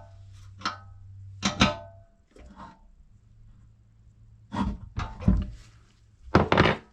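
Short metallic clinks and dull knocks of a tool and metal parts being handled while a bolt is tightened: two ringing clinks in the first couple of seconds, then three louder knocks near the end.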